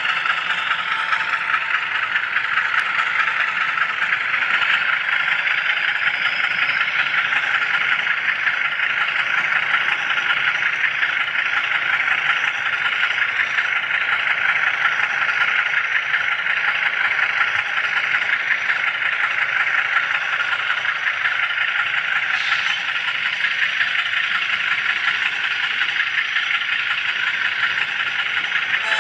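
HO scale model railroad camera car rolling along the track, giving a steady, dense rattle of small wheels on the rails that goes on without a break.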